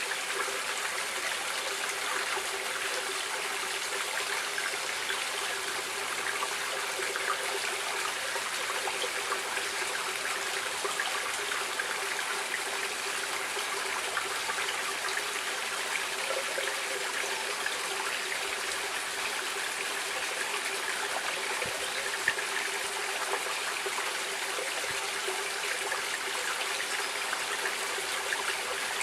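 Stream water running steadily, with small irregular splashes and trickles.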